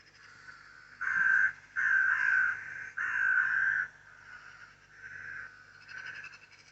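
A large bird's harsh calls: three loud ones in quick succession, each well under a second, then a few fainter calls near the end.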